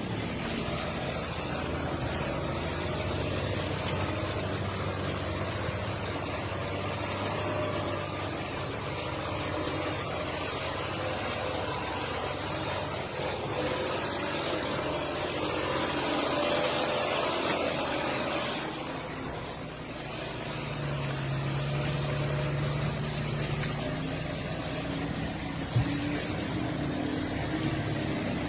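Truck engine running steadily; about two-thirds through its note changes and it briefly drops in loudness, then a lower tone is held for a few seconds. A single sharp knock sounds near the end.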